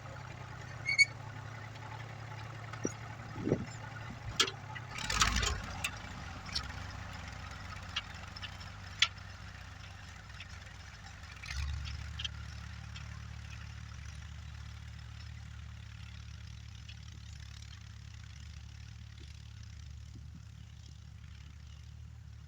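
An engine running steadily, its low hum growing heavier about eleven seconds in. Several sharp knocks and clicks in the first nine seconds, with a short rattling burst around five seconds.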